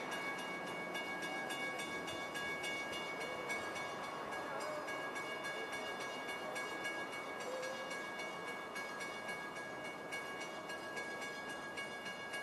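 A New Jersey Transit train approaching from a distance: a steady high-pitched tone held throughout, over a low rumble of the train on the rails.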